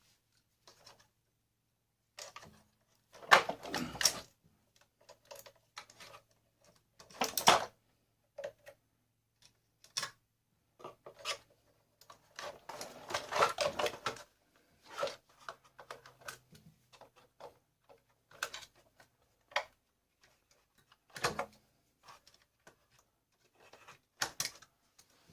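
Plastic and metal parts of a vacuum cleaner being handled and pulled apart by hand: irregular clicks, knocks and rattles, with the loudest clatters about three to four seconds in, at about seven seconds, and a longer rattling spell around the middle.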